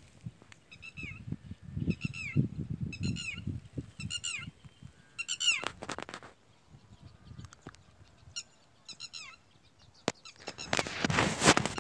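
A bird calling over and over in short, sharp, falling notes, about one call a second, with low thumps of footsteps and handling on the microphone. Near the end a loud burst of noise hits the microphone.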